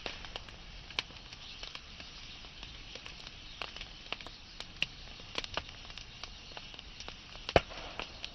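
Wood fire burning, with a steady hiss and irregular sharp crackles and pops; one louder pop comes near the end.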